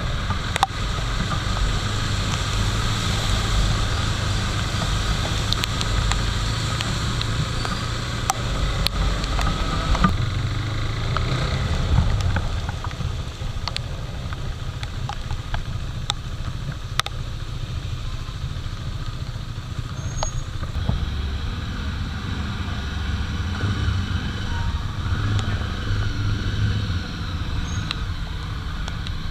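Motorcycle engine running with road and rain noise while riding, a steady low rumble heard through a microphone under a rain cover, with scattered sharp ticks throughout.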